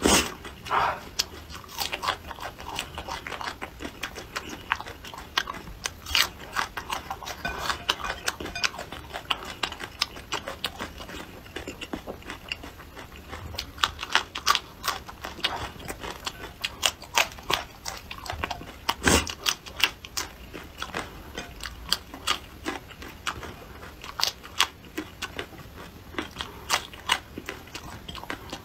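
Close-up crunching and chewing of raw red chili peppers and raw shallot: crisp bites and chews in quick, irregular succession, with one loud snap about nineteen seconds in.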